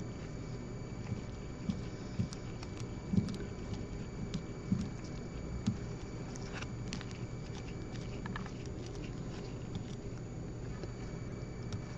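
Scattered small clicks and taps from hand work on the metal parts of a diamond anvil cell, as its screws are backed out, over a steady electrical hum with a faint high whine. The sharpest taps fall in the first half, with lighter ticks later.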